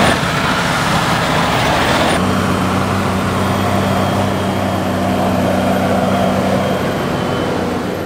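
Heavy farm tractor machinery running loudly. About two seconds in, the sound changes abruptly to a steady, even engine drone.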